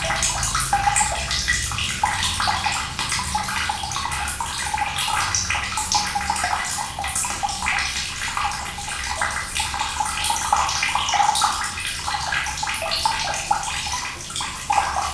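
Running water splashing and pouring steadily, like a tap filling a tub.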